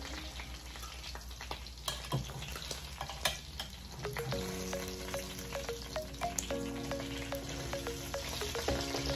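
Fried pork and chicken pieces sizzling in hot oil in a stainless steel skillet, with repeated sharp clinks of metal tongs against the pan as the pieces are lifted out.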